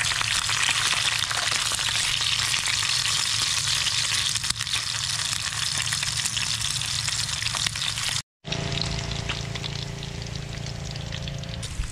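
Slices of pork belly sizzling steadily as they fry in hot oil in a small pan on a portable gas stove. The sound cuts out for a moment about eight seconds in, then the sizzle resumes a little quieter.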